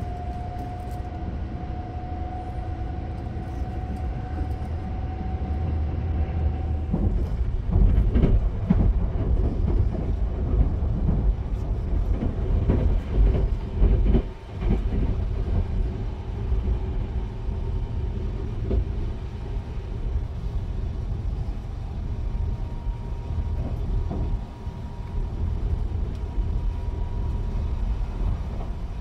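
Sunrise Seto sleeper train, a JR 285 series electric train, running, heard from inside: a steady low rumble of wheels on track with a faint motor whine that slowly rises in pitch. From about seven seconds in, another train passes close alongside for several seconds, a louder rush and clatter.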